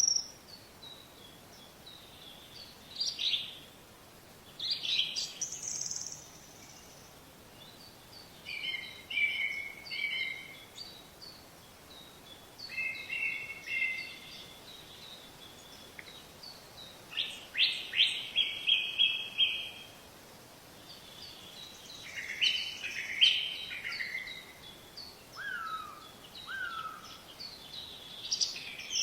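Wild birds singing and chirping in short separate phrases, one a quick run of about six notes and two lower falling whistles near the end, over a faint steady background hiss.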